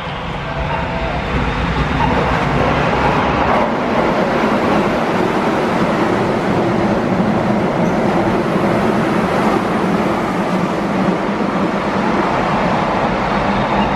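Keihan electric trains running through stations at speed, the steady noise of wheels on rail and traction motors, growing louder over the first two seconds.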